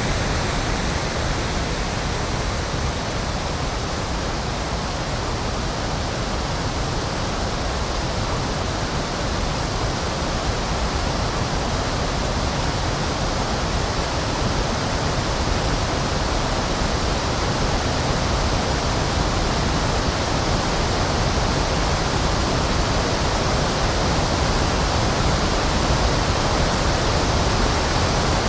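Pink noise: steady, even electronic static with more bass than white noise.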